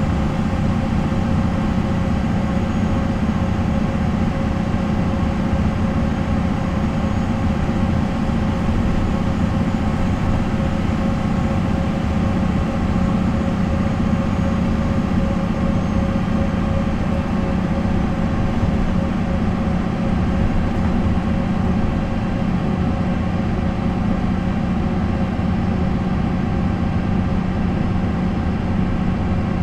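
MAN NL 263 bus's D28 inline-six diesel engine running steadily at a nearly constant pitch, driving through a ZF Ecomat automatic gearbox.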